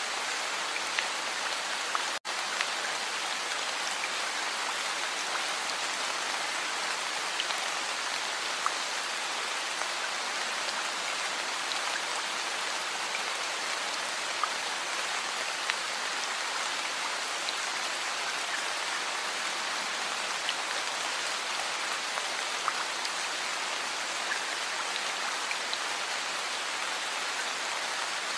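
Heavy rain falling steadily: a dense, even hiss with scattered sharper drop ticks. The sound cuts out for an instant about two seconds in.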